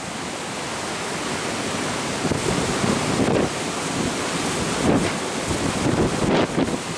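Wind buffeting the microphone in gusts over a steady rush of sea water past a moving ship.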